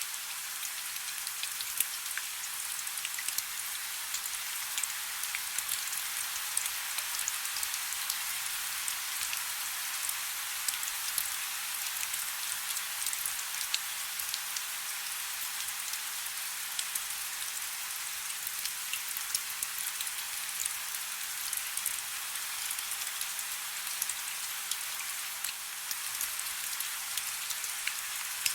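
Steady soft rain, a dense hiss with many small scattered drop ticks and no deep rumble.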